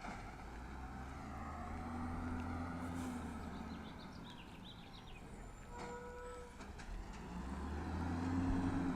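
Peterbilt 320 side-loader garbage truck running, its engine revving up twice, about two seconds in and again near the end, with a short tone about six seconds in.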